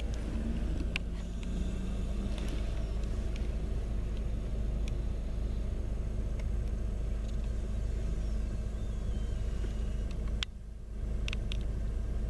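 Steady low rumble of a passing road vehicle, with scattered clicks and a faint falling tone about seven to nine seconds in. The rumble drops briefly near the end.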